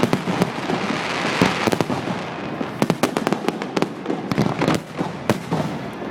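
Fireworks display: a rapid, irregular series of sharp bangs from bursting aerial shells over continuous crackling, with a dense patch of crackle about one to two seconds in.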